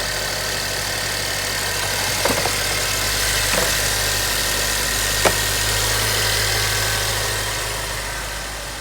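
2017 Land Rover Discovery Sport's 2.0-litre four-cylinder engine idling steadily and running smoothly, with three light clicks about 2, 3.5 and 5 seconds in.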